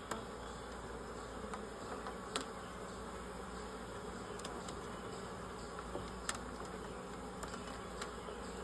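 Steady hum of a mass of honey bees buzzing around an open colony, with two faint clicks partway through.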